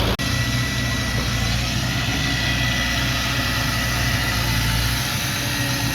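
Heavy diesel engine of earthmoving equipment running steadily at low revs, with a steady hum. There is a momentary dropout just after the start.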